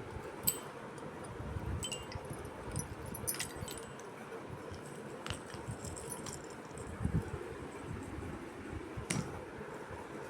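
A few scattered, light metallic clinks and taps from a baby parrot's swing, over a steady low background rumble.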